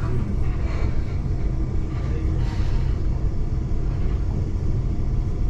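Steady low rumble of a regional train, heard inside the carriage.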